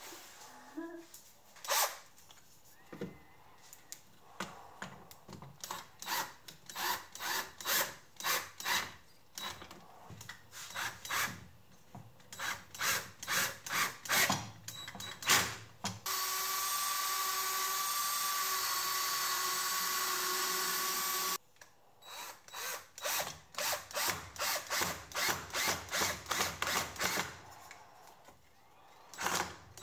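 Rhythmic scraping strokes, about two a second, in two runs, typical of a knife blade being drawn over a sharpening stone held at a set angle in a home-made jig. Between the runs a steady power-tool whir with a high whine runs for about five seconds and cuts off suddenly.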